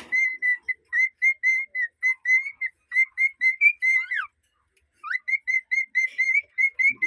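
Cockatiel whistling its song: a quick run of short, clear chirping notes, about four or five a second, ending in a falling slide about four seconds in. After a brief pause it starts again with a rising note and more short notes.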